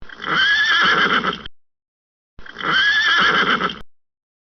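Horse whinnying twice, two identical calls of about a second and a half each, with about a second between them; each call ends abruptly.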